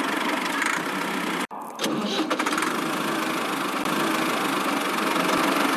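Small motor of a miniature DIY construction machine running steadily, with a sudden brief dropout about one and a half seconds in.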